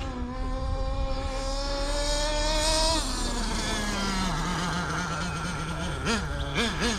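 Small two-stroke nitro glow engine (CXP .26) of a 1/8 scale HSP monster truck running hard, its pitch climbing slowly for about three seconds. The pitch then drops sharply as the throttle comes off and settles lower, and near the end it wavers up and down in quick throttle blips.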